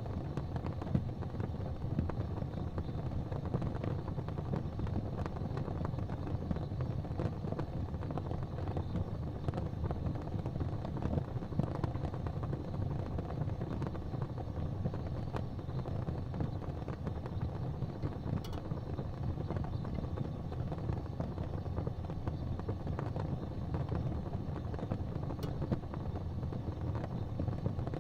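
Fireplace fire crackling with scattered small pops over a steady low rumble.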